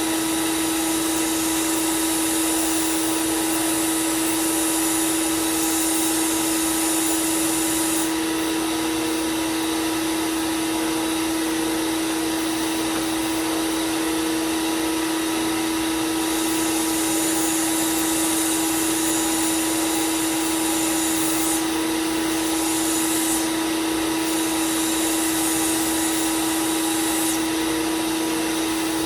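Belt sander running steadily with a constant motor hum. A high grinding hiss comes and goes several times as a knife blade is pressed to the belt to thin and sharpen it.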